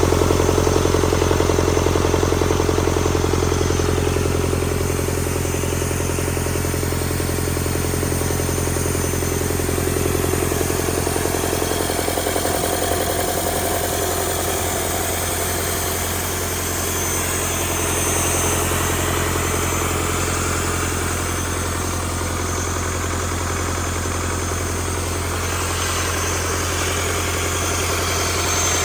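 Freshly rebuilt Doosan D34P four-cylinder diesel engine running steadily on a performance test, its note changing a little about twelve seconds in.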